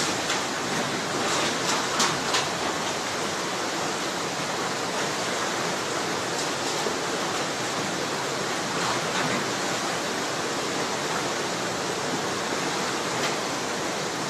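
Floodwater rushing in a steady, dense torrent, with a few short cracks in the first couple of seconds.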